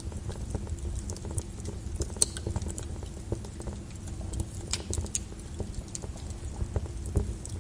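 Flowing lava crackling over a steady low rumble: irregular sharp clicks and snaps of cooling crust, the loudest a little over two seconds in.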